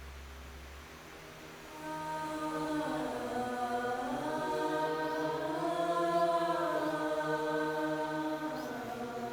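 Voices chanting a held, slowly wavering drone in several tones, coming in about two seconds in, swelling through the middle and easing off near the end.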